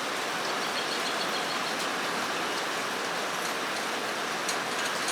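Rain falling on a metal roof: a steady, even hiss with scattered faint ticks of drops.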